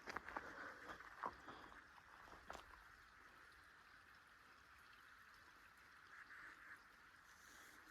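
A few quiet footsteps on a woodland trail in the first couple of seconds, then near silence with a faint steady hiss.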